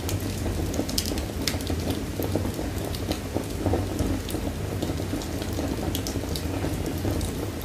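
Wood fire in a fireplace crackling: irregular sharp pops and snaps over a steady low roar of the flames.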